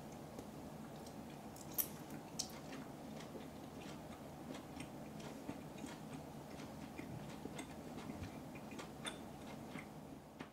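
Soft chewing of a band-aid-shaped gummy candy: small irregular wet mouth clicks, the sharpest about two seconds in, over a low steady hum.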